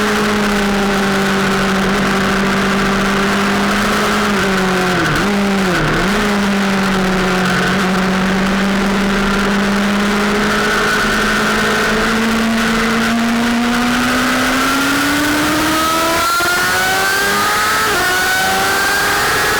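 Sportbike engine running at steady high revs on a race track, with two quick dips in pitch about five seconds in; later the revs climb, drop briefly near the end and climb again under acceleration.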